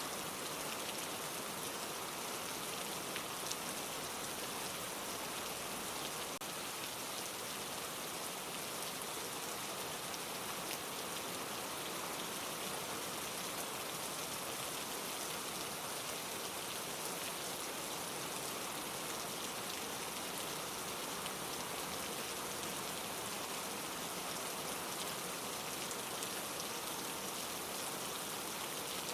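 Steady rain falling: an even hiss with faint scattered drop ticks, unchanging throughout.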